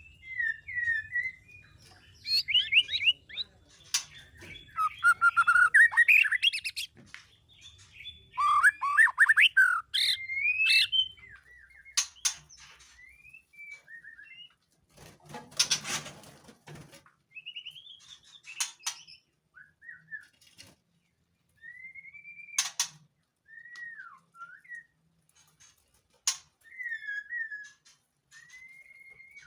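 White-rumped shama in breeding condition singing: rich, fluty whistled phrases that are dense and loud for the first ten seconds or so, then thin out into scattered short whistles and sharp calls. A short burst of noise comes about halfway through.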